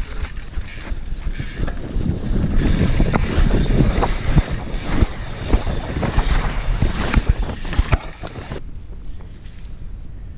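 Action-camera audio of a mountain bike descending a rough forest trail: wind rushing over the microphone, tyres churning over dirt and the bike rattling and knocking over bumps. About eight and a half seconds in, the knocking and hiss fall away and it goes quieter.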